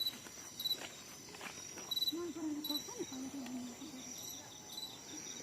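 Insects chirping: a steady high buzz with short chirps repeating about once a second that quicken near the end. A faint voice is heard about two seconds in.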